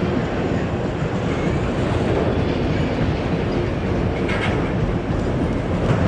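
Freight cars of a passing CSX manifest train rolling by, wheels clattering steadily over the rail, with a couple of metallic clanks near the end.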